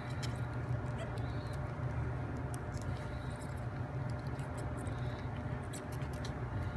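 Faint, irregular small clicks and scratches of wooden toothpicks and plywood puzzle parts being handled and pressed together, over a steady low hum.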